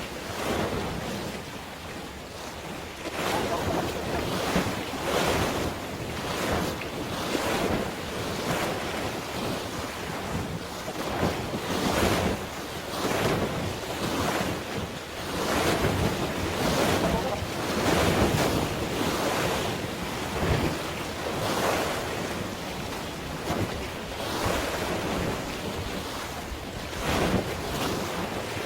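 Sea waves washing and splashing in irregular surges every second or two, with wind buffeting the microphone.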